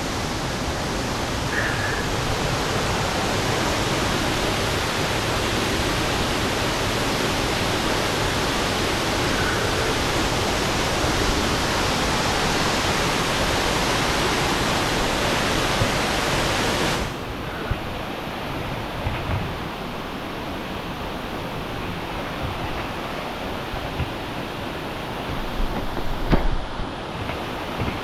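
Rushing river water, a steady loud hiss. It drops abruptly to a lower, duller rush about two-thirds of the way through, with a few short knocks after.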